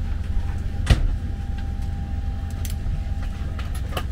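Steady low rumble of a parked Boeing 767-300's cabin air supply, with one sharp knock about a second in and a few faint clicks near the end.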